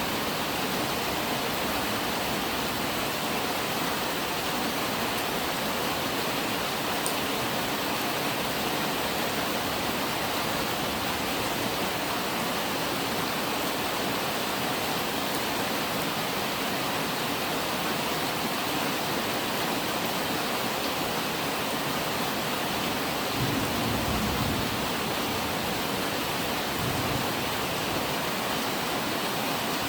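Steady heavy rain hissing evenly, with a low rumble of thunder about three quarters of the way through.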